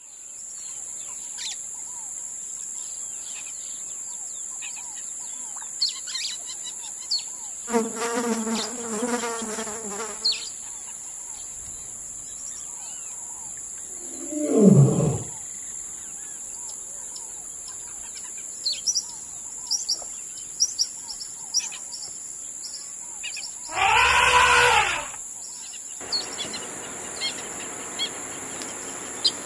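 Jungle-style wildlife ambience: a steady high-pitched insect drone with many short bird chirps. Three louder animal calls stand out: one lasting about two seconds around eight seconds in, a loud call falling in pitch near fourteen seconds, and another loud call around twenty-four seconds.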